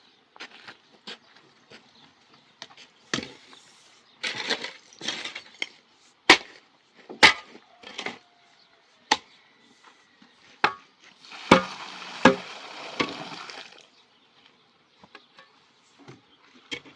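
A series of sharp knocks at irregular intervals, about seven strong ones, with stretches of scraping between them, as of hand work on wood or stone.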